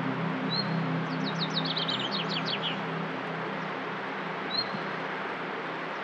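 A songbird sings a quick run of falling high notes about a second in, with a short high chirp twice more, over a steady hiss of outdoor background noise. Low ambient music chords fade out in the first second or two.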